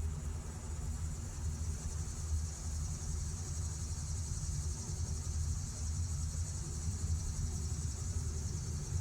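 Crickets chirring in a steady, unbroken chorus, high-pitched, over a constant low rumble.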